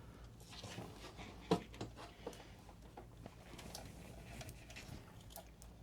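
Faint, scattered small clicks and light rustling of PS5 internal parts being handled and fitted by hand.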